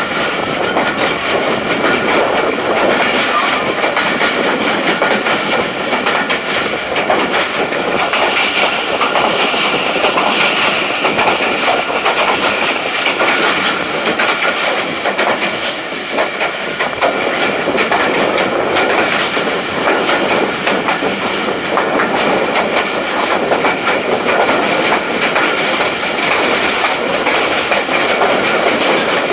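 Tezgam Express passenger train running, its wheels going over the rails in a steady, unbroken noise.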